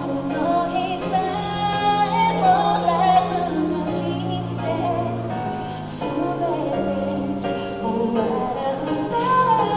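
A woman singing a Japanese ballad with piano accompaniment.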